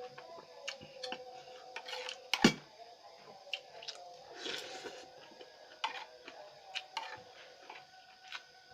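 Eating sounds: scattered clicks and taps of a utensil against a plate or bowl, with soft chewing, and one sharper knock about two and a half seconds in.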